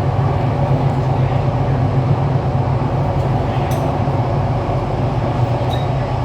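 Kawasaki–CRRC Qingdao Sifang CT251 electric train running between stations, heard from inside the carriage: a steady low rumble of wheels on rail, with a faint click or two in the second half.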